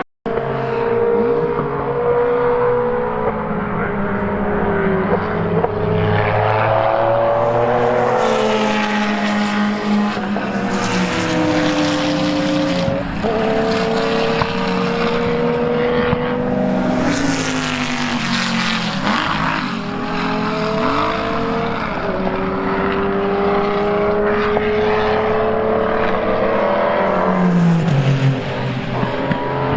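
Racing car engines at high revs on track, several at once, climbing in pitch through the gears with repeated upshifts and passing close by. There are two loud peaks about a third and three fifths of the way through, and one engine drops in pitch near the end as it slows.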